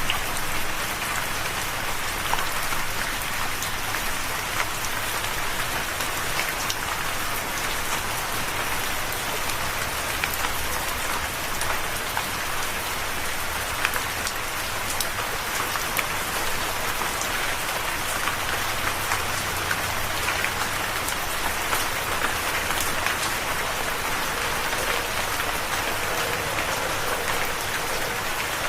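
Steady rain falling, an even hiss with the small ticks of individual drops striking a surface.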